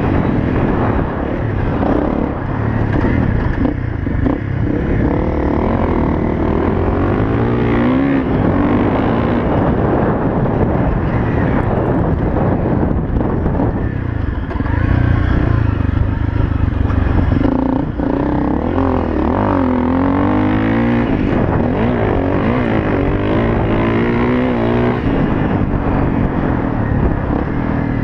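Honda CRF250L's single-cylinder four-stroke engine running under way, its pitch rising and falling again and again as the throttle is worked and gears change.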